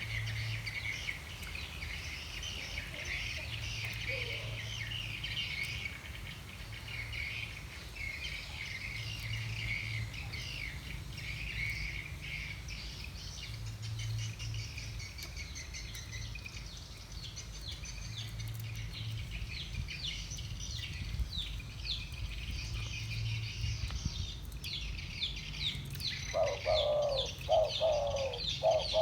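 Many small birds chirping continuously. About three seconds before the end, a spotted dove starts cooing, a series of low, repeated coos louder than the chirping.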